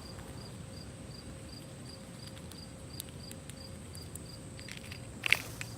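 Cricket chirping: short, high, evenly spaced chirps, about three a second, faint. A brief louder rustle about five seconds in.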